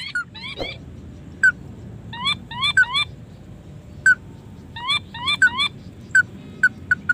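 Crake calls: short, sharply rising notes repeated in quick groups of two or three, with single lower notes between the groups.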